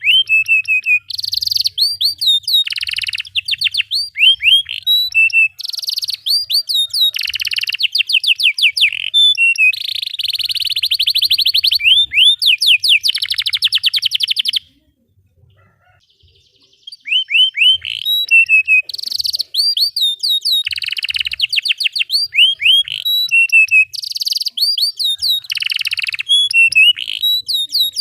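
Domestic canary singing a long, loud song of fast rolling trills and quick rising whistled sweeps, breaking off for about two seconds midway, then going on.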